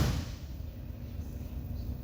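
1976 Chevrolet Nova SS's engine idling with a steady low rumble. At the very start, the tail of a loud thump dies away.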